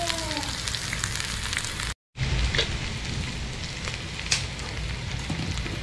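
Chopped fresh turmeric and bird's-eye chillies sizzling and crackling in hot oil in a wok, with a metal spatula scraping and clicking now and then. This is the aromatics being fried until fragrant. The sound cuts out for an instant about two seconds in.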